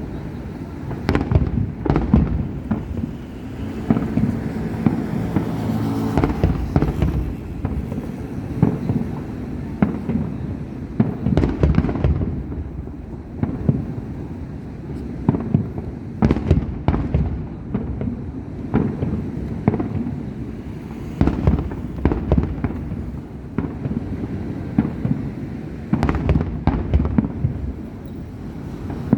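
Fireworks display: aerial shells bursting in quick succession, sharp bangs over a steady low rumble, with heavier clusters of bursts several times.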